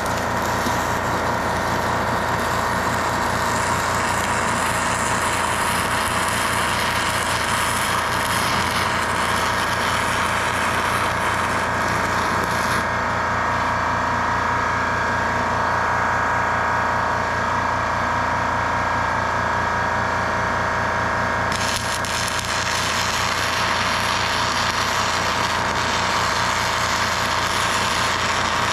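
Continuous steady machine noise from metalworking on a steel vise stand, with a whine that runs throughout; the high hiss drops away for several seconds in the middle.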